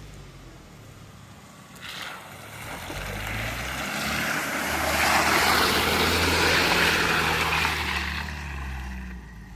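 A motor vehicle's engine running, its noise swelling to a peak about halfway through and fading again, like a pass-by or a run up and back down.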